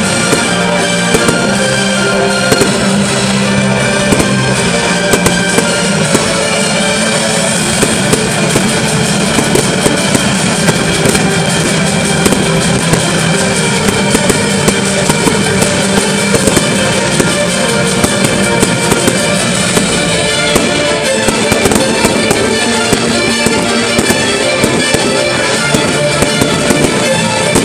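Fireworks display: a continuous run of sharp bangs and crackles from bursting aerial shells, going off many times throughout, with music playing underneath.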